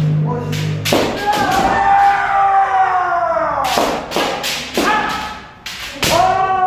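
Kendo sparring: sharp cracks of bamboo shinai strikes and stamping feet in several clusters, each followed by a long shouted kiai that slides down in pitch.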